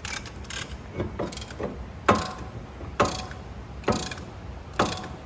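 Ratcheting brake caliper piston spreader being pumped to push the caliper piston back. Each squeeze gives a sharp metallic click, the louder ones coming about once a second.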